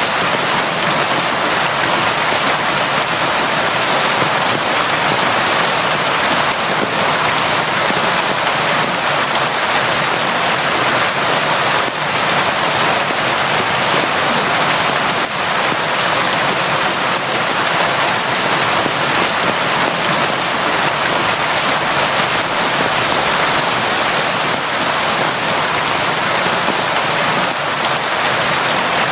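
Steady heavy rain falling, a dense even hiss of drops with no let-up.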